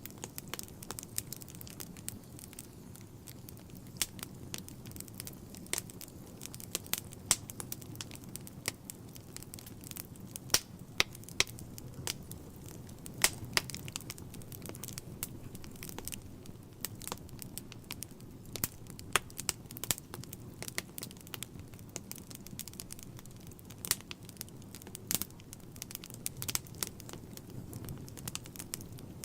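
Wood fire burning in a fireplace: a steady low rumble of flame with frequent irregular crackles and pops from the burning logs, some of them sharp and loud.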